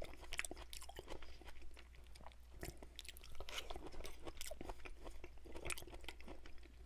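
Close-miked chewing of Chinese takeout food: soft wet mouth clicks and small crunches, irregular and fairly quiet.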